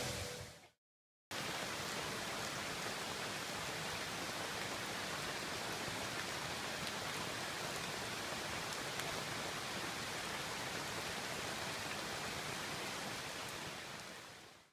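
Steady, even rushing of falling water, cutting in about a second in after a brief silence and fading out near the end.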